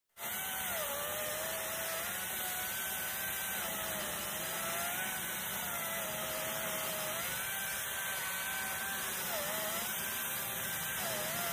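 Battery-powered chainsaw running and cutting firewood: a steady motor whine that dips in pitch several times as the chain bites into the wood, then climbs back.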